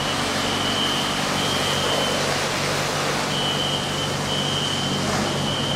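A high electronic beeping tone pulsing on and off in long beeps, with one longer pause near the middle, over a steady loud rushing noise and a low machinery hum.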